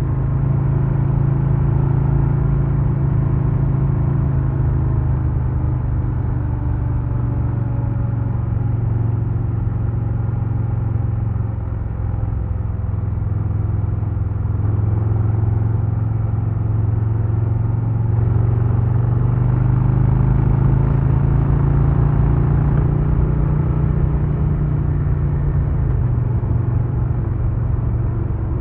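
2022 Harley-Davidson Low Rider S's Milwaukee-Eight 117 V-twin running under way on the road. The engine note eases down about twelve seconds in, climbs slowly for several seconds, then drops in one step a couple of seconds before the end.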